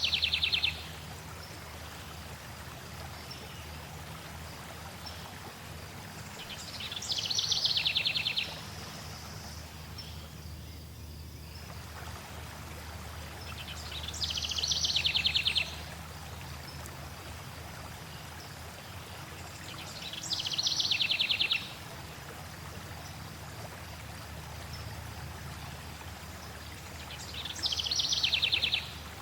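Steady rush of flowing stream water, with a songbird singing a short, rapid, high trill five times, about every seven seconds; each song swells and then stops abruptly.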